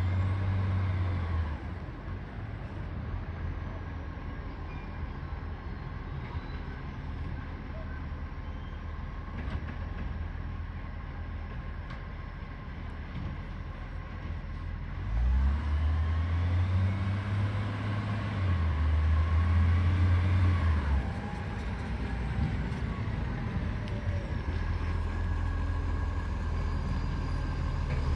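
Garbage truck diesel engine running with a leaking exhaust. The engine note changes briefly at the start and again for several seconds about halfway through, when it runs louder with rising and falling pitch before settling back.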